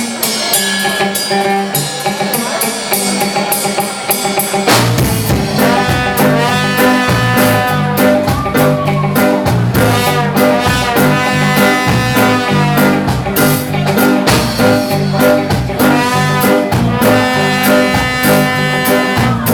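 Live roots rock reggae band playing an instrumental intro. Bass and drums come in about five seconds in under a lead melody line, and the full band plays on from there.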